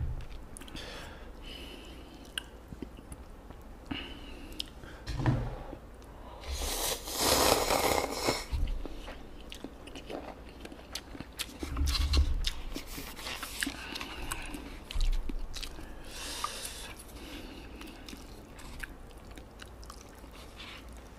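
Close-miked eating: chewing and crunching with many small wet mouth clicks, a few dull knocks, and a louder noisy stretch of about two seconds a third of the way in.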